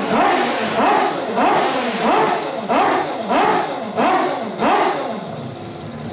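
Four-rotor Mazda rotary racing engine revved in quick repeated throttle blips, pitch climbing and dropping about one and a half times a second, then easing back toward idle near the end.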